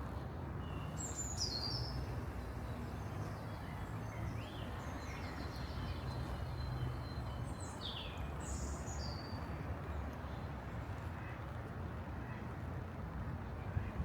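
Birds chirping in short, high calls, a few near the start and a cluster in the middle, over a steady low background rumble of the city.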